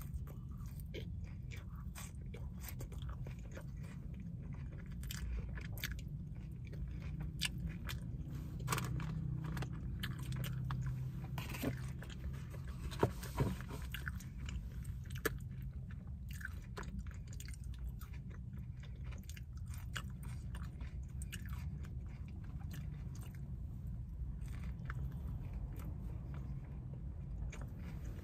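A person chewing and biting into a double-patty McDonald's burger, with many small wet mouth clicks and smacks, over a steady low hum.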